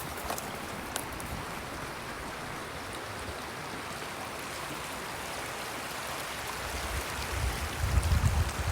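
A brook's water running steadily, with a low rumble coming in near the end.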